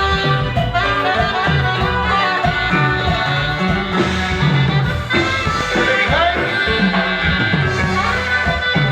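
Live band playing an upbeat dance song, melody lines over a steady pulsing bass and drums.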